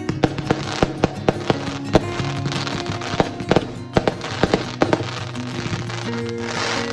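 Fireworks going off in a rapid, irregular series of sharp bangs and pops with bursts of hiss, over background music.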